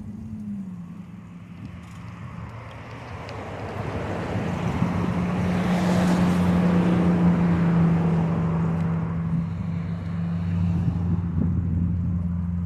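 Road traffic beside the cycle path: a motor vehicle's engine hum and tyre noise swell to a peak about halfway through, then ease off as it passes.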